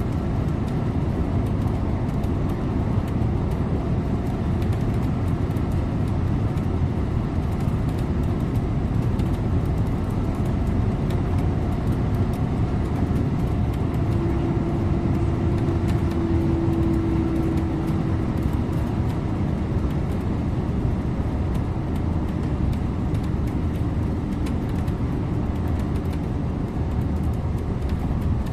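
Scania InterLink bus on the move: steady engine and road noise with a low rumble. About halfway through, a thin steady whine joins in and fades out near the end.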